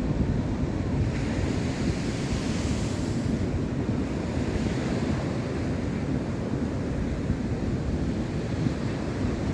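Wind buffeting the microphone with a steady low rumble, and ocean surf washing on the beach, one wave swelling up briefly about a second in.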